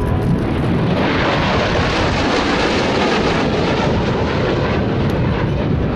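Military aircraft flying past at low level, its engine noise swelling about a second in and then holding steady and loud.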